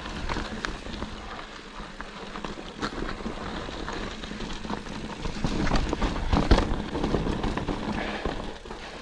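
Ibis mountain bike rolling down a rocky dirt trail: tyres crunching over gravel and stones with a rapid scatter of clicks and rattles from the bike, over a steady rush of wind. The clatter grows busier and louder about six seconds in.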